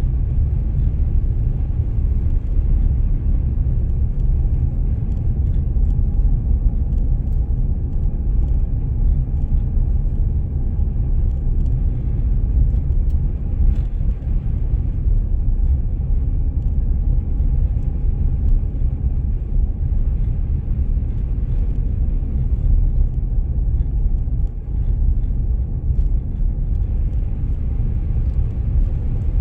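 Car driving steadily, a continuous low rumble of engine and road noise.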